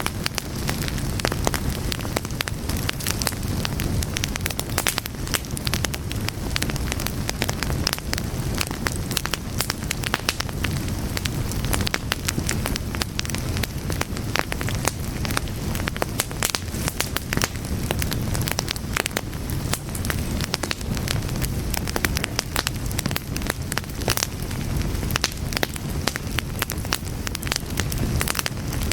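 Wood fire burning, with a steady low rumble and dense, irregular crackles and pops throughout.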